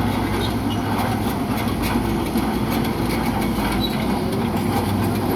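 Bulldozer's diesel engine running steadily with a low hum, with metallic clanking and squeaking of its steel tracks as it works rock.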